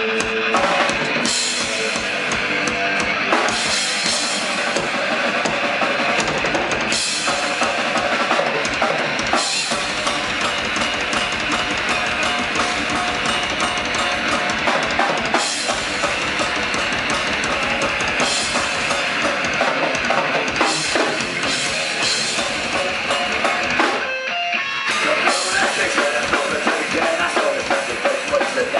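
Live rock band playing a song, drum kit prominent with bass drum and snare, with a brief break in the music near the end.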